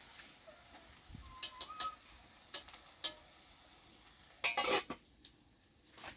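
Scattered clicks and knocks of kitchen utensils and dishes, with a short, louder clatter about four and a half seconds in, over a steady high-pitched whine.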